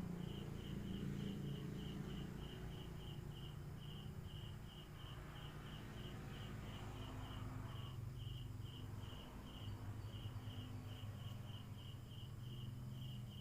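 A cricket chirping steadily, a high-pitched pulse about four times a second, over a low rumble.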